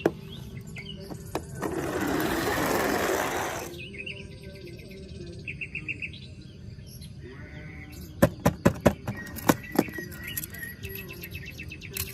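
Small birds chirping and tweeting, with a hiss lasting about two seconds near the start and a quick run of sharp clicks and knocks about two-thirds of the way through.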